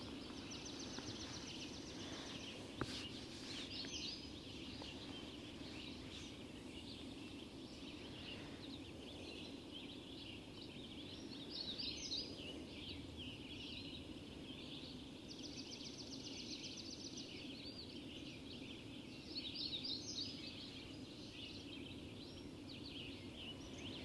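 Birds calling at dawn: scattered high chirps and warbles, with a rapid high trill about a second in and again around fifteen seconds, over a steady low background hiss.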